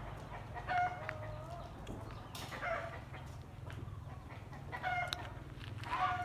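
Chickens calling in short pitched clucks, four times, with the first call about a second in drawn out longer. A steady low hum runs underneath.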